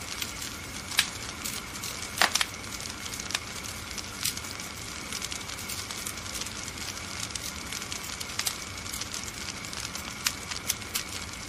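Wood fire crackling in a fireplace: a steady hiss with frequent sharp pops and snaps, the loudest about one and two seconds in.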